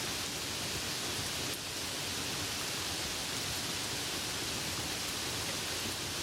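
Steady soft rain falling, an even hiss.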